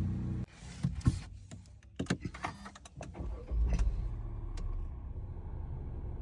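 Mercedes car engine switched off, followed by several sharp clicks of keys and switches, then started again about three and a half seconds in and settling into a low, steady idle.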